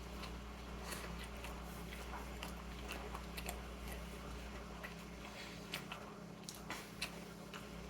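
A person chewing a bite of a chicken tender sandwich: faint, irregular small mouth clicks and smacks over a steady low hum.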